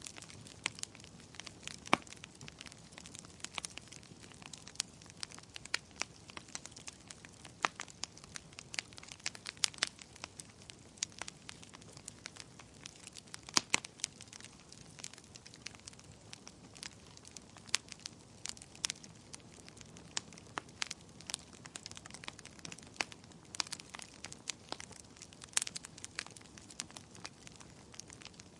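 Bonfire of burning wood crackling: irregular sharp pops and snaps, several a second, over a soft steady hiss of the flames.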